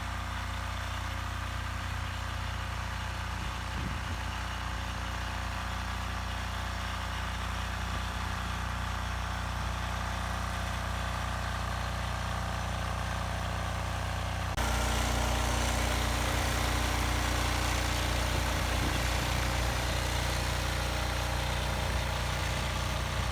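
A vehicle engine idling steadily, with an even low hum. About two-thirds of the way through it abruptly gets louder and then holds steady.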